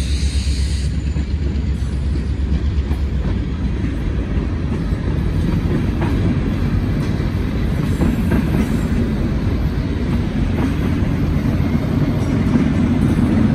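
A long freight train passing close by: steady low rumble of the train rolling along the rails.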